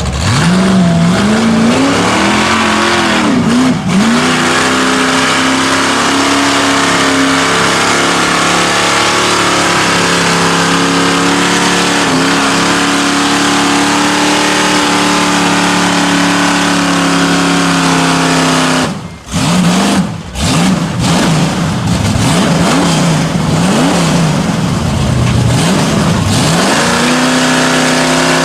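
Mud truck's engine revving hard under full throttle: the revs climb in the first seconds and hold high for a long stretch. About two-thirds of the way through it drops out sharply twice, then the revs swing up and down several times before holding high again near the end.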